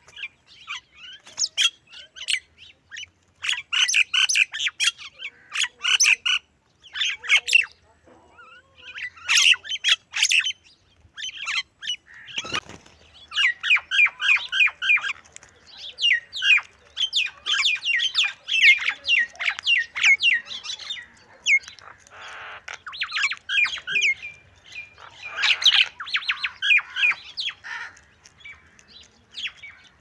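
Common mynas and house crows calling: quick runs of short chirps and chattering notes, mixed with harsh squawks. A soft thump comes about twelve seconds in.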